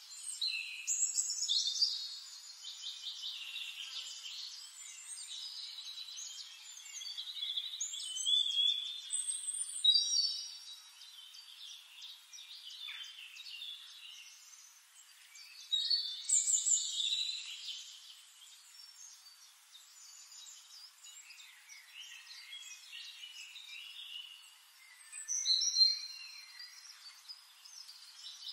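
Birdsong from several birds: overlapping high chirps, trills and quick whistled sweeps, with louder bursts of song coming and going every several seconds.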